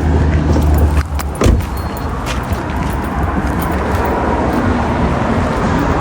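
A car's low engine hum that stops about a second in, a few sharp clicks, then steady outdoor road noise.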